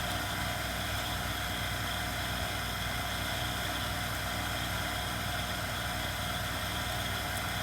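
Steady, unchanging background hum with a faint hiss, with no knocks or handling sounds over it.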